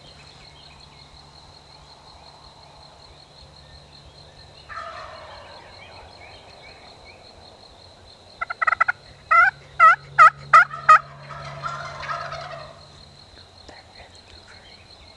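Wild turkey gobbling: a loud series of about eight sharp, rapid notes past the middle, with softer calling a few seconds before and after.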